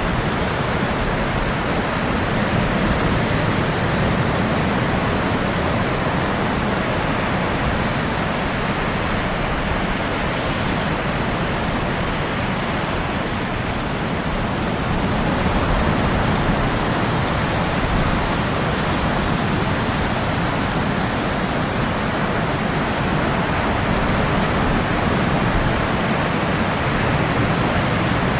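Ocean surf washing steadily onto a beach, a continuous hiss of breaking water that swells slightly a few times.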